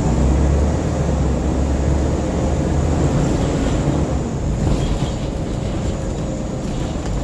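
Scania N94UB single-deck bus heard from inside the saloon on the move: a low engine drone, strong for the first three seconds and then easing off, under steady road noise, with a few light rattles in the second half.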